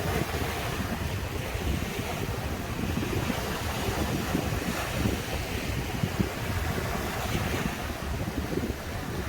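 Caribbean surf washing onto a sandy beach, a steady rush of breaking waves, with gusty wind buffeting the microphone as a low rumble.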